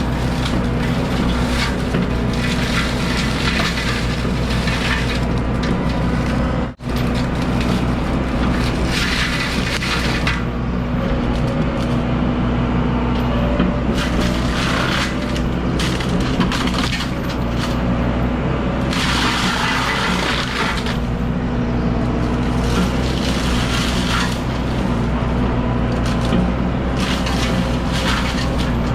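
A heavy machine's diesel engine running steadily under load, with repeated crackling and crunching of brush and wood being broken. The sound cuts out for a moment about seven seconds in.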